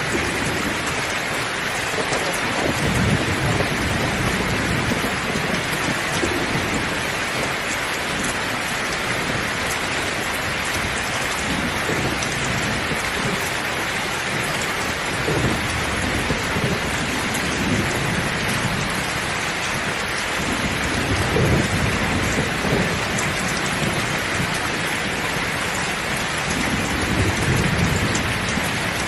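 Heavy rain pouring steadily, a dense even hiss. Several low rumbles swell and fade through it, a few seconds apart.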